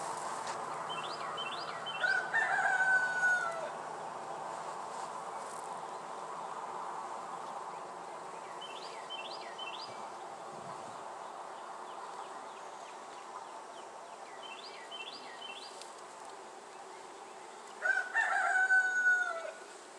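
A rooster crows twice, about two seconds in and again near the end, over the steady hum of honey bees from an open hive.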